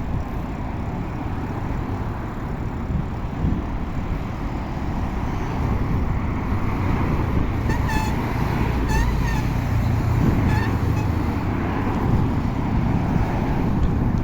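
Steady wind rumble on the microphone and road traffic noise while riding a bicycle. Around the middle come a few short honks.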